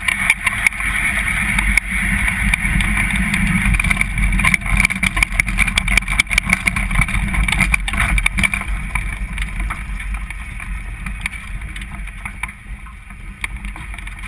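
Onboard audio of a front-engine dragster: a loud, dense rumble with wind buffeting and rattling clicks, easing off over the last few seconds.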